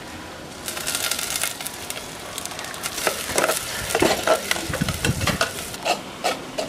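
Onions, green chillies and curry leaves frying in hot oil in a clay pot. The sizzle jumps up sharply a little under a second in, as the wet curry leaves go into the oil, and goes on as a spoon stirs and scrapes the mixture against the pot.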